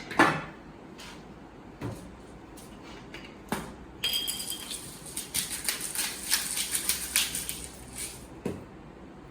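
A few light knocks of kitchen items being handled and set down, then about four seconds of rapid gritty clicking from a spice grinder being twisted to season food.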